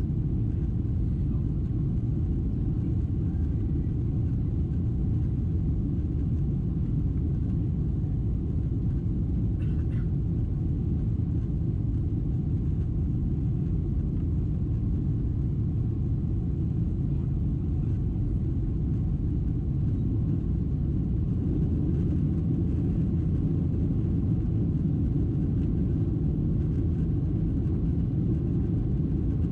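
Steady low rumble of a Boeing 737-700 in flight, its CFM56-7B engine and airflow noise heard from inside the passenger cabin.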